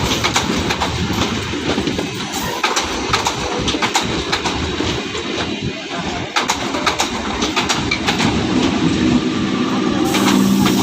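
Indian Railways EMU local train running on the track: a steady rumble with sharp clicks of the wheels over the rail joints. A steady low hum comes in near the end.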